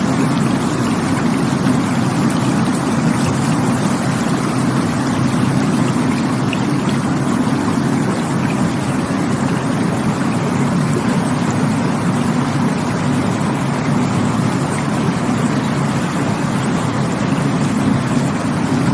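Rushing stream water, a steady, unbroken rush.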